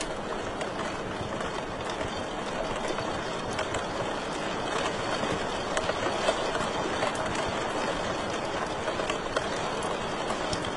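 Wood fire crackling in a fireplace: a steady rushing noise of flame with many small snaps and pops, a few louder ones scattered through.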